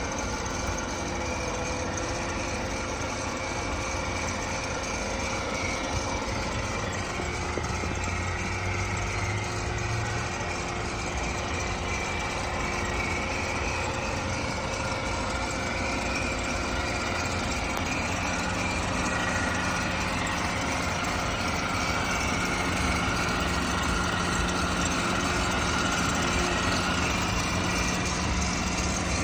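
2007 Mercedes-Benz's turbocharged engine idling steadily just after being started. A low steady tone joins about eighteen seconds in.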